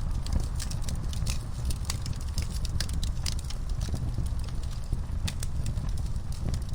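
Wood fire burning in a fireplace, crackling with many irregular sharp pops over a low, steady rumble.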